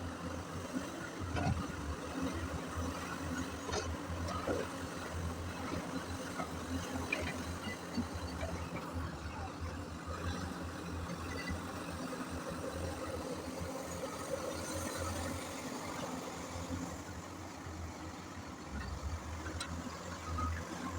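Large hydraulic excavator's diesel engine running with a steady low drone, with a few sharp knocks here and there.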